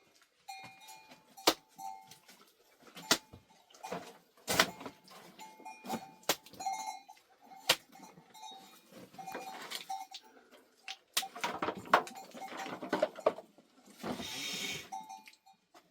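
Small metal livestock bells ringing and clinking on and off, among many sharp knocks, with a short noisy burst near the end.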